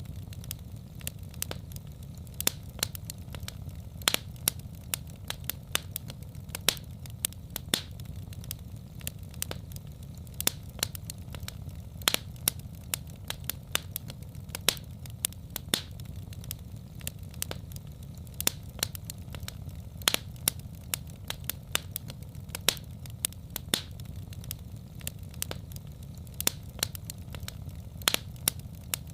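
Wood fire in a fireplace crackling and popping, with irregular sharp pops several times a second over a steady low rumble of the flames.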